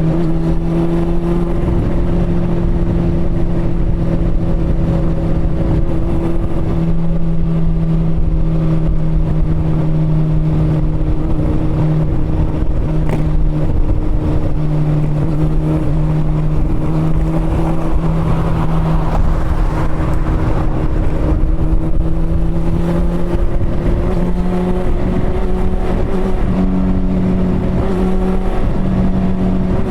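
Honda CB400 Super Four's inline-four engine running steadily under way, with wind and road noise. The engine note sags a little, then rises about three quarters of the way through as the revs climb.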